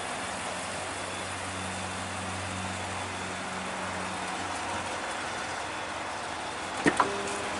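A vehicle engine idling, a steady low hum that fades out a little past halfway, over a steady hiss; a single sharp click near the end.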